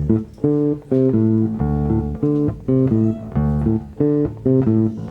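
Live band music: bass and plucked strings playing a repeating figure with a steady beat.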